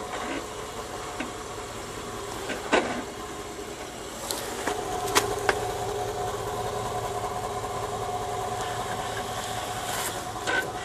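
Four-wheel drive's engine running at low speed while crawling over rock ledges. Its note rises about halfway through and then holds steady. A few sharp clicks and knocks come through early on.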